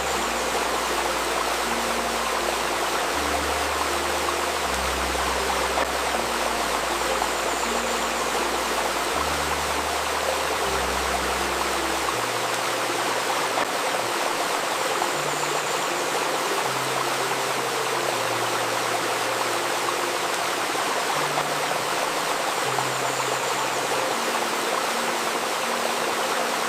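Steady murmur of a flowing river stream, with soft, low sustained music notes beneath it that change pitch every second or two.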